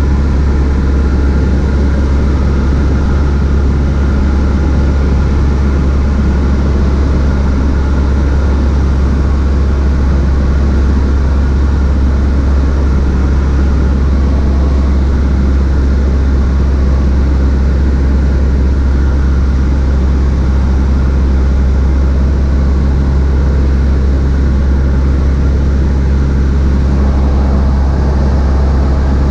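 Cessna 152's four-cylinder Lycoming O-235 engine and propeller droning steadily in the cockpit, a loud, deep, unchanging hum.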